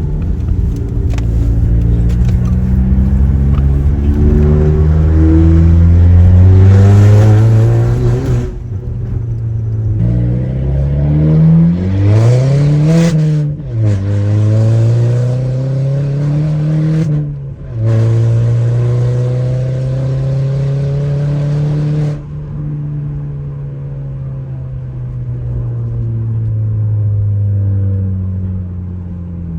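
Straight-piped Audi A3 8P exhaust, muffler and resonator deleted, as the car accelerates through the gears. The engine note climbs in pitch and drops sharply at each shift, about a third, half and two-thirds of the way in, holds steady, then turns quieter with a slowly falling pitch as the throttle is eased off.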